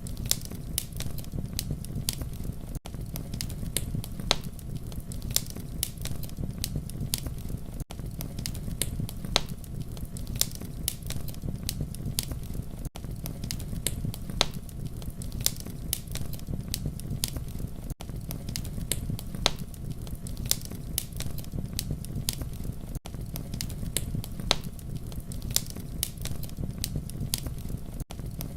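Campfire burning: a steady low rumble of flames with frequent sharp crackles and pops of burning wood. There is a brief gap in the sound about every five seconds.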